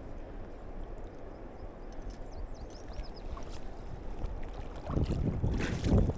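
Steady rush of river water with some wind on the microphone. About five seconds in, a louder splashing and sloshing of water lasts about a second.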